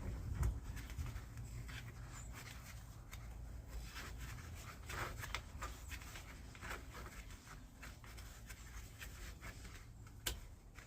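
Faint scattered clicks and rubbing of small parts being handled and fitted by hand, with a sharper click near the end.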